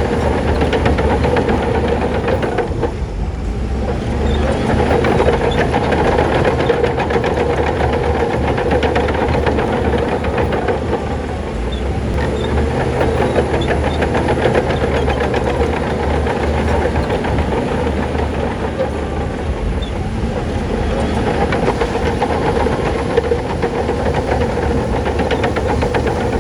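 Crawler bulldozer working: a steady diesel engine with a rapid, continuous clatter of steel tracks.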